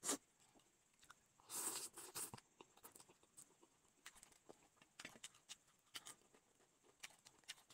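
Faint close-up eating sounds: chewing with soft mouth smacks and clicks as noodles and a fried crisp are eaten, with a louder burst of noise about a second and a half in.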